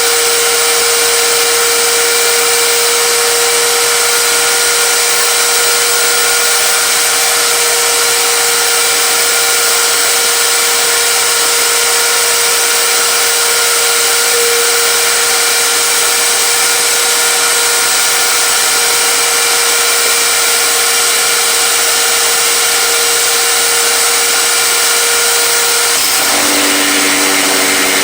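Electric power tool running steadily at a constant pitch; its sound changes near the end, dropping to lower tones.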